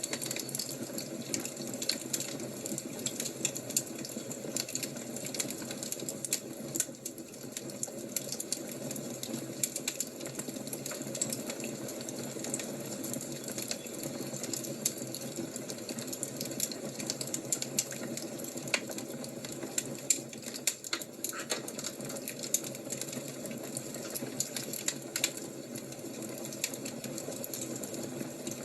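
Wood fire crackling: a steady hiss with frequent sharp pops and snaps at irregular intervals.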